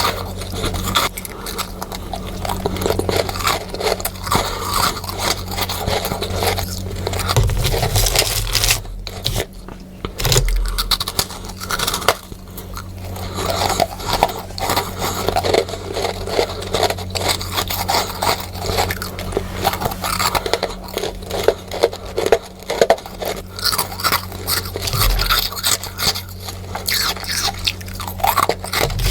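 Freezer frost being bitten and chewed close to the microphone, a dense run of crisp crunches with scraping, sped up. A faint steady low hum runs underneath.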